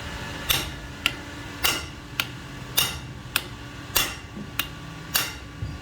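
Steady hammer blows, about two a second, alternating a harder strike with a lighter one, each with a short ring.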